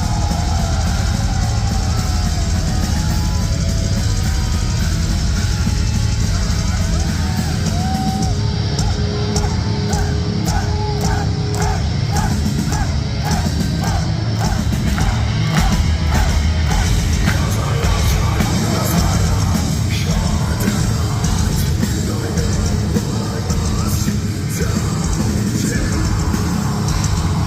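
Metalcore band playing live: heavy distorted guitars, bass and drums with yelled vocals, recorded loud and bass-heavy from the audience. A run of short repeated high notes comes in over the band in the middle.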